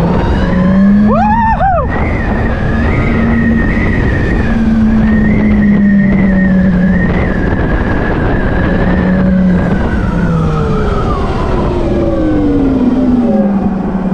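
Tarform Luna electric motorcycle running under way, its motor drone holding a steady pitch over rushing wind noise, then falling in pitch near the end as it slows. A brief warbling tone rises and falls about a second in.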